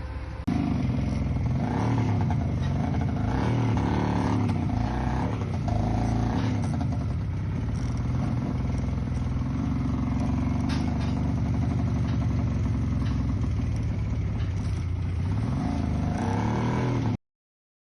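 Vehicle engine running steadily while driving, its pitch shifting a little, with light clatter over rough ground; it starts abruptly just after the start and cuts off suddenly near the end.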